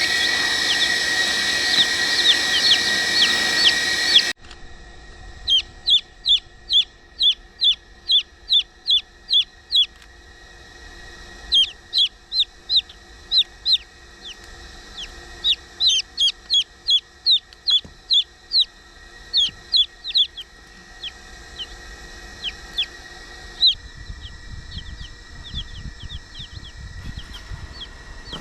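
Chicks peeping: runs of short, high, falling peeps, about two or three a second, in bouts with brief pauses. A steady background hiss and hum cuts off suddenly about four seconds in.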